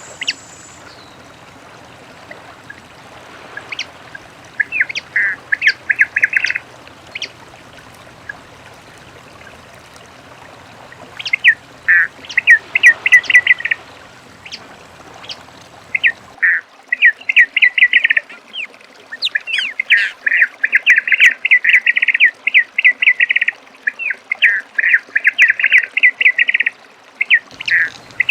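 Many-colored rush-tyrant (papa-piri) singing: phrases of rapid, stuttering short notes, a second or two each, few at first and coming almost without pause in the second half.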